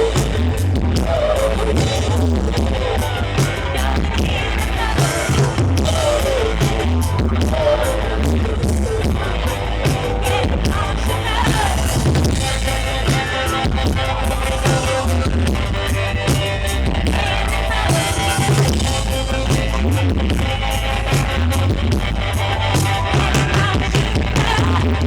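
Live rock band playing a song with a woman singing over drums, bass and guitar, the bass and kick drum pulsing heavily and steadily.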